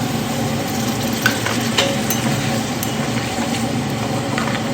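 Chicken pieces and potatoes frying in oil in a kadai, a steady sizzle, with a few light clicks of the spatula stirring them.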